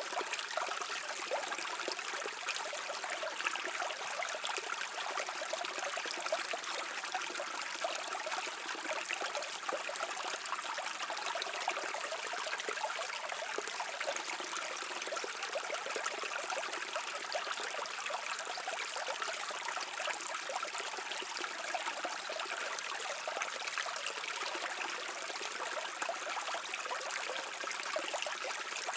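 Shallow stream water babbling and trickling steadily over stones.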